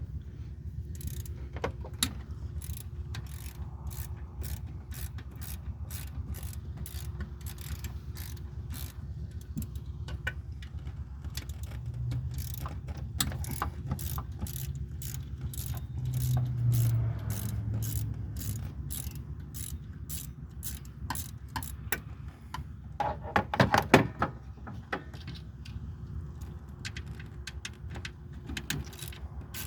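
Socket ratchet wrench clicking in long runs of quick strokes as bolts are loosened to take out an alternator, over a steady low hum. A brief, louder clatter comes about three quarters of the way through.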